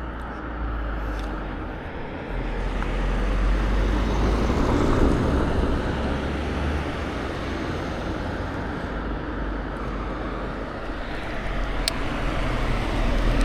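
Wind rushing over the microphone and bicycle tyres rolling: a steady noise over a low rumble that swells between about three and six seconds in, with a couple of light ticks near the end.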